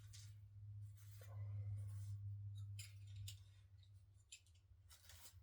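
Faint handling noises, light rustling and scattered clicks of a plastic-packaged doll being picked up and moved, over a steady low hum.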